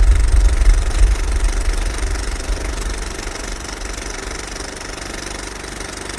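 Vehicle engine running with a rhythmic low rumble, loud at first, fading over the first few seconds and then holding steady.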